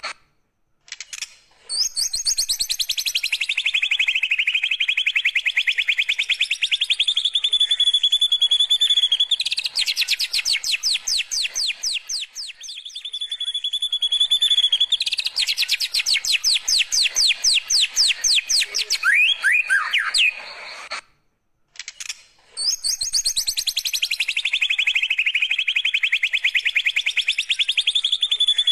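White-rumped shama (murai batu) singing a canary-like 'kenarian' song: long runs of rapid, evenly repeated high notes, some phrases sweeping down in pitch before settling into a steady trill. The song breaks off briefly about a second in and again about two-thirds of the way through.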